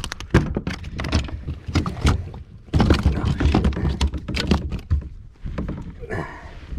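Irregular knocks and clatter against a kayak, with wind rumbling on the microphone, while a hooked bass is fought and brought aboard.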